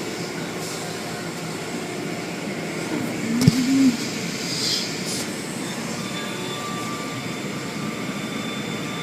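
Automatic car wash running, heard from inside the car: a steady rush of machinery and spray. There is a single sharp knock about three and a half seconds in, then a brief high hiss.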